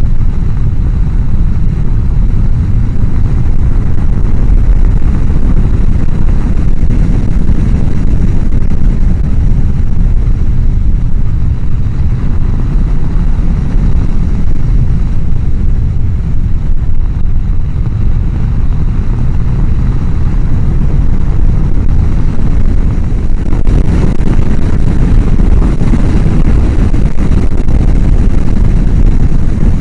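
Loud, steady wind rush on a motorcycle helmet microphone at riding speed. The microphone sits behind the helmet's chin-bar air vent, so air through the vent drowns out the rest of the sound.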